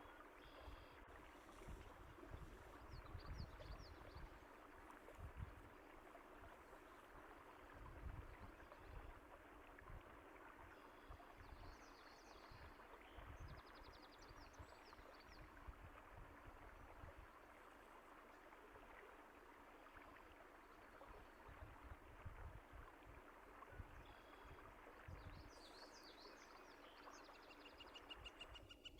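A stream of water running steadily and faintly, with a few faint bird chirps now and then, most around the middle and near the end.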